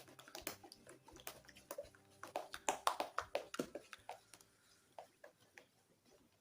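A run of irregular light knocks and clicks, busiest in the middle and thinning out to a few near the end.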